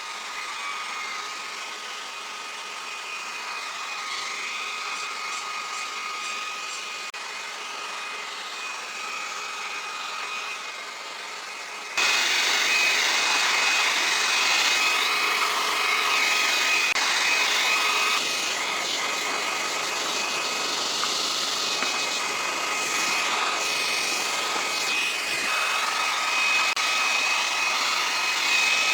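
A small motor running steadily with a whine, becoming suddenly louder about twelve seconds in.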